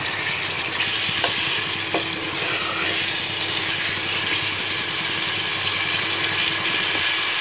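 Chicken pieces sizzling steadily as they fry in oil with onion paste, over a steady low hum. Two light knocks from the wooden spoon come about a second and two seconds in.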